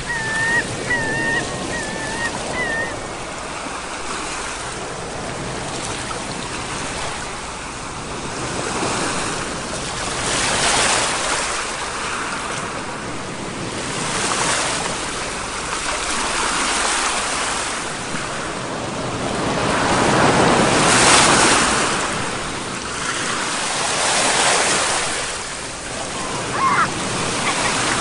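Sea waves breaking and washing on a shore, the surf swelling and easing every few seconds. There are short bird calls in the first couple of seconds and one more near the end.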